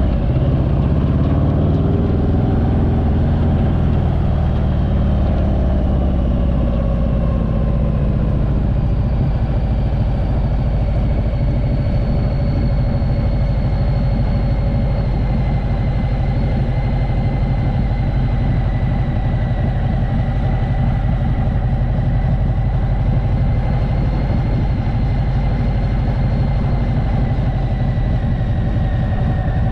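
Motorcycle engine running steadily at road speed. Its tone eases down a little over the first several seconds, then holds.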